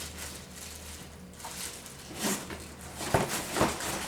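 Packaging being handled while unboxing a floor cleaner: quiet rustling, then a few sharp knocks and clicks with rustling in the last second or so.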